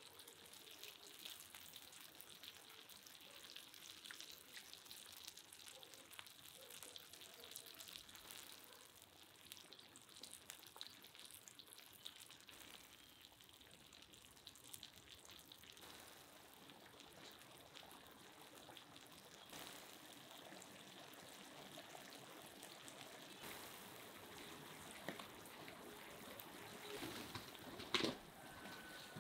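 Eggs and sausage pieces frying in a large pan: a faint, steady sizzle with fine crackles. There is a short, louder noise near the end.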